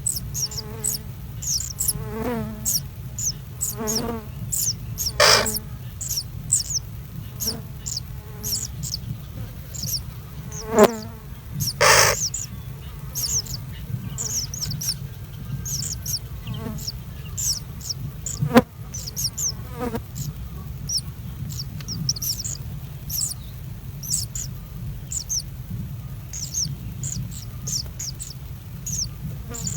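Small birds chirping: quick, high, short chirps repeated throughout, with a few louder, fuller calls, over a steady low hum.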